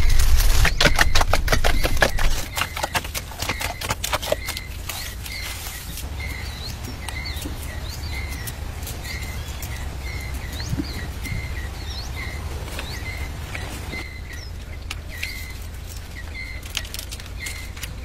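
A rapid run of clicks and rattles over a low rumble, loudest in the first two seconds and dying away by about six seconds in. Under and after it, a bird repeats a short chirp about twice a second.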